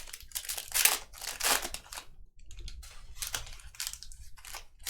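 Trading-card pack wrapper crinkling and tearing as it is opened, in a run of irregular rustles.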